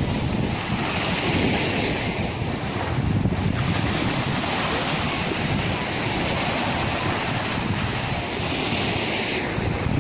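Sea waves washing and breaking in a continuous surging rush, with wind buffeting the microphone.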